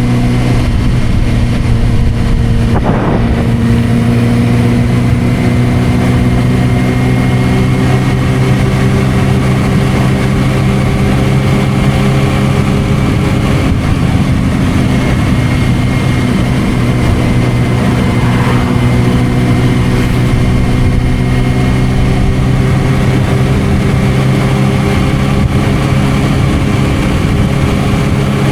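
Suzuki GSR600's inline-four engine through an aftermarket Dominator exhaust, running at nearly steady revs while cruising, its pitch drifting up slightly and evenly.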